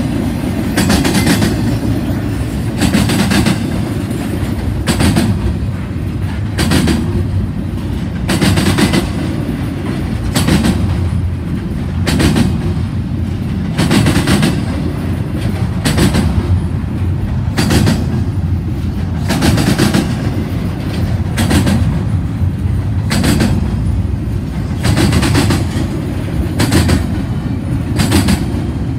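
Double-stack intermodal freight cars rolling past: a steady low rumble of steel wheels on rail, with a sharp clack about every two seconds as wheelsets cross a gap in the track.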